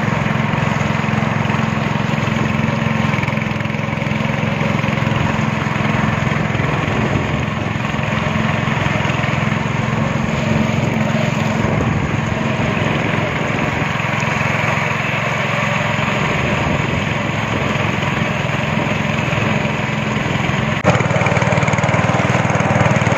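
Speedboat engine running steadily under way, with a steady hiss over it; it gets a little louder near the end.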